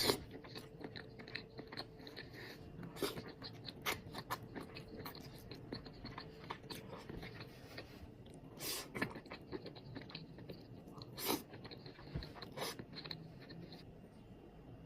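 A person chewing imitation crab close to the microphone, with wet mouth clicks and smacks, and a few louder bites scattered through.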